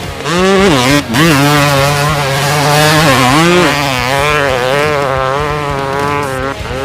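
Dirt bike engine sound revving up and down, its pitch rising and falling several times.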